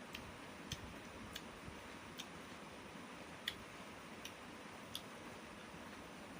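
Faint eating noises: small, sharp clicks at an uneven pace, about one a second, over quiet room hiss, typical of someone chewing a meal of rice and curry.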